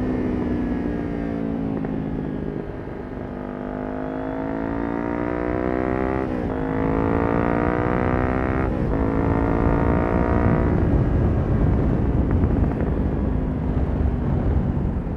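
Kawasaki Ninja 400 parallel-twin with a Yoshimura exhaust easing off, then pulling hard with its pitch rising through two quick upshifts about six and nine seconds in. From about eleven seconds in, the engine note gives way to a steady rush of wind noise at speed.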